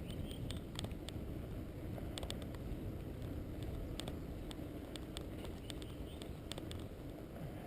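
Wheels rolling along a rough road: a steady low rumble with scattered sharp clicks and ticks.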